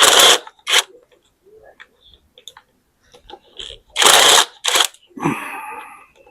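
Short bursts of a tool working engine bolts loose during a strip-down: two quick bursts at the start and two more about four seconds in. A metallic scrape with a ringing tone follows for about a second near the end.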